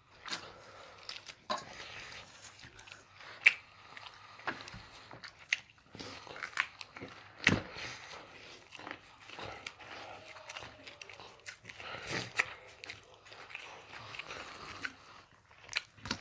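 Eating a meal of eggs and rice: wet chewing and biting, with irregular sharp clicks and smacks scattered through.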